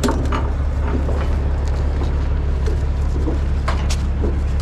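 Heavy rotator wrecker's diesel engine idling steadily, with a few short clicks and knocks from the straps and hooks being rigged.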